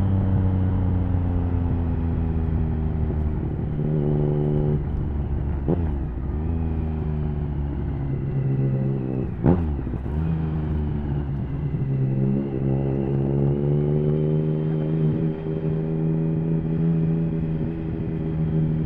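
Triumph Speed Triple 1050's inline three-cylinder engine through an HP Corse Hydroform exhaust, on the move. The revs fall off at first, then come a couple of short throttle blips, the sharpest and loudest about halfway through. After that the engine settles into a steady, slowly rising pull.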